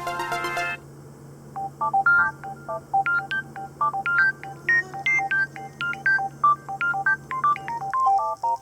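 Background music: a dense electronic track cuts off under a second in, then a melody of short, high synth blips, several a second, over a faint low hum.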